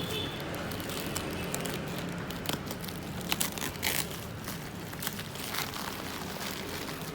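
Packaging being handled: plastic wrap and cardboard crinkling and rustling, with scattered small clicks and knocks over a low steady hum.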